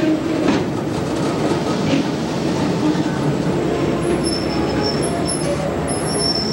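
Conrail diesel freight train rolling past: a steady rumble of wheels on rail and the locomotive's engine. From about four seconds in, a thin, high-pitched wheel squeal comes in and out.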